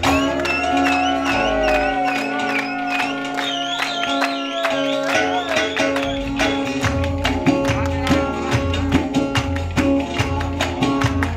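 Live Turkish folk music, instrumental between sung verses: a wavering melody line over a steady drone and quick plucked strokes, with a low beat coming in about halfway.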